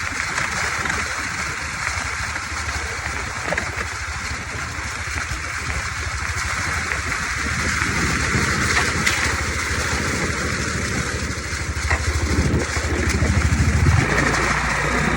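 Dirt bike engine running, getting louder from about halfway through.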